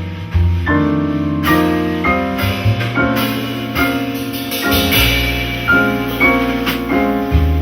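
Jazz piano trio music: piano playing a run of chords over low double bass notes, the chords changing about once or twice a second.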